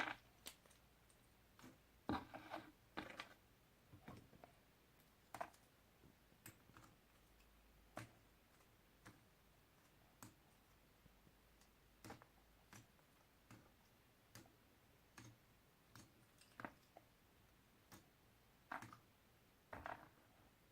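Faint, sharp clicks and taps of puzzle pieces being handled, roughly one a second, with a short cluster of rustling taps a couple of seconds in.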